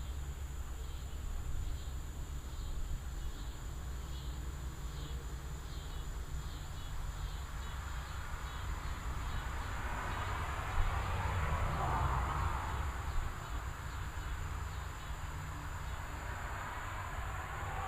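Insects chirping in a regular pulse of about two a second over a steady low rumble; about ten seconds in, a rushing noise swells and fades, with another swell near the end, as the chirping becomes hard to pick out.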